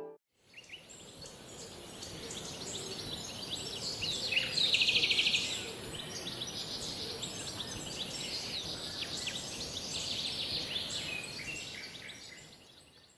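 Many birds chirping and calling over a steady high hiss, with a loud rapid trill about four seconds in. The ambience fades in at the start and fades out near the end.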